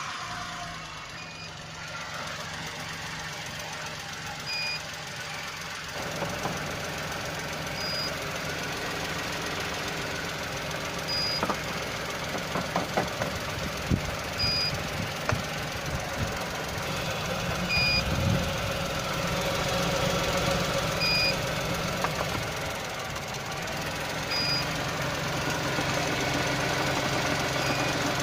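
Volkswagen 1.2-litre three-cylinder petrol engine (code CHFB) idling steadily, with a short electronic beep repeating about every three seconds and a few sharp clicks near the middle.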